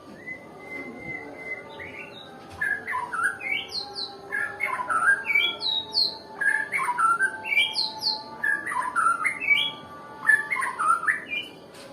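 White-rumped shama (murai batu) singing: one held whistle, then repeated phrases of quick, sliding whistled notes.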